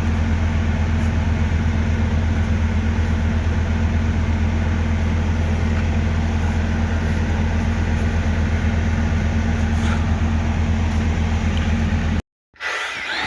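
A steady low mechanical hum of a running motor, unchanged for about twelve seconds, then cut off abruptly near the end, with a different whining sound starting just after.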